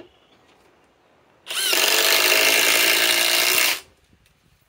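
Ridgid 2400 in-lb four-mode cordless impact driver hammering a 4-inch Grip-Rite screw home: one burst of a bit over two seconds starting about a second and a half in, rising in pitch as it spins up and cutting off sharply.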